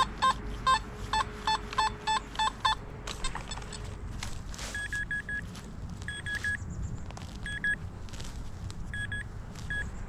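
Metal detector giving repeated short beeps as the search coil is swept back and forth over a buried metal target, two to three beeps a second at first. From about halfway on it gives sparser clusters of higher-pitched beeps.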